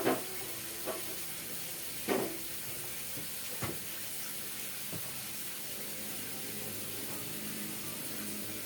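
Steady hissing, watery kitchen noise of cooking, with a few short clinks of utensils in the first half.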